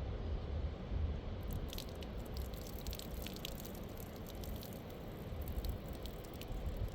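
Steady low rumble, like wind on the microphone, with a scatter of small sharp drips and clicks starting about a second and a half in.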